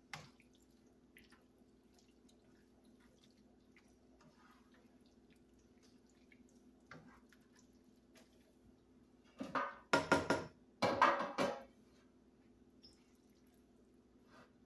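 A serving spoon scraping and clattering against a pan in two bursts about two-thirds of the way in, as the casserole is moved about, with faint clicks and a low steady hum between.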